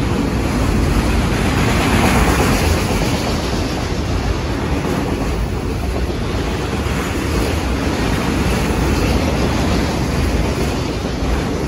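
Loaded autorack freight cars rolling past: a steady rumble and hiss of steel wheels on the rails.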